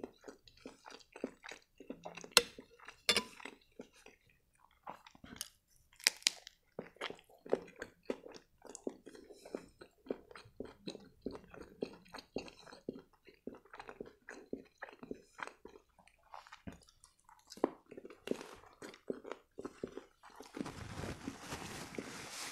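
A person chewing turkey shawarma close to the microphone: wet mouth clicks and crunching, bite after bite. Near the end a paper napkin rustles as the mouth is wiped.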